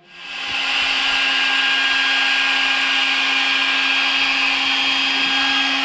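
Small electric air pump starting up and running steadily with a constant hum, inflating an air mattress.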